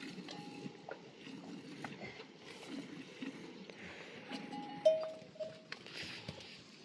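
Livestock bells clinking at irregular moments as a herd moves and grazes, with short ringing tones, the loudest about five seconds in.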